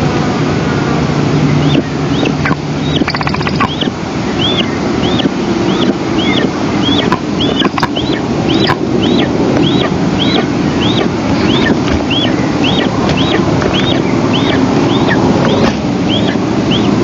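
Eastern imperial eagle at the nest giving a long series of short, high, arched call notes, nearly two a second, over a steady rushing noise. The calls start about two seconds in and stop shortly before the end.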